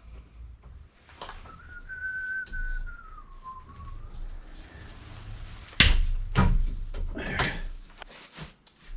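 A person whistling a few held notes that dip in pitch, followed by a loud sharp knock and some clatter from work on the plumbing.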